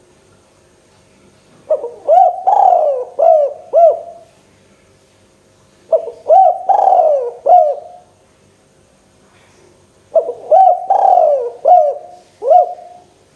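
Spotted dove (tekukur) cooing its song three times, each phrase a run of about five rolling coo notes lasting a couple of seconds, with pauses of about two seconds between phrases.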